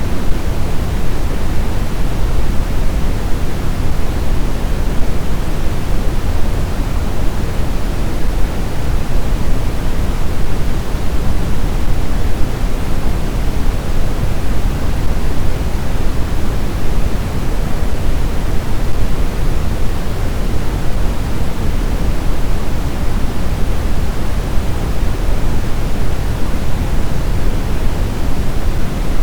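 Snowstorm wind: a loud, steady rush of noise, deepest and strongest in the low end, with no gusts, whistles or howling tones.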